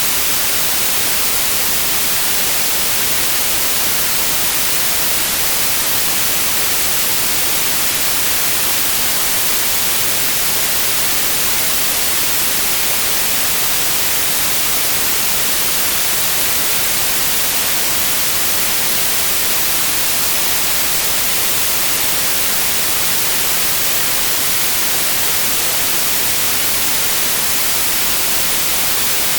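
Continuous white noise: a steady, even hiss with no changes.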